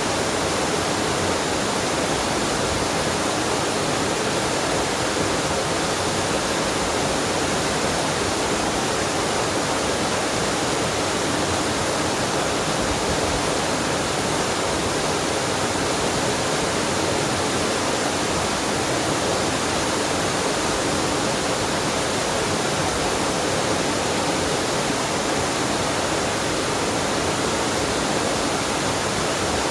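Waterfall and mountain stream: water rushing in a steady, unbroken wash of sound that does not change.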